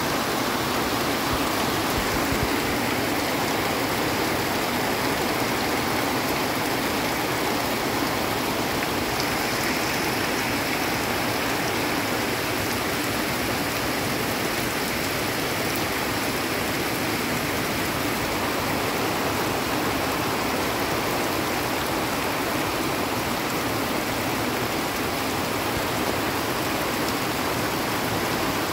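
Heavy rain pouring steadily onto dense leaves and the ground, a constant even hiss of downpour with no breaks.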